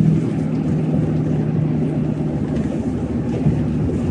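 Pickup truck driving, heard from inside the cab: a steady drone of engine and road noise with a low hum.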